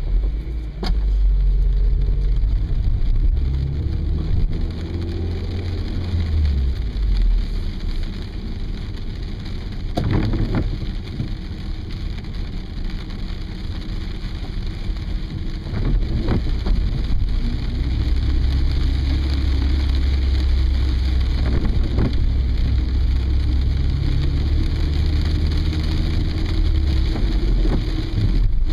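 Car cabin noise in the rain: a low engine and road rumble that swells and eases, under rain on the car body, with a few sharp knocks.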